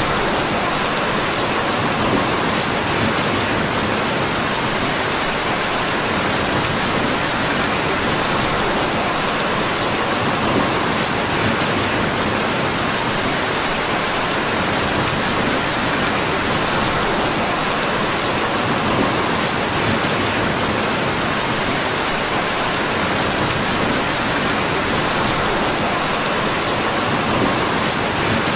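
Steady rain falling on a surface, an even hiss without letup.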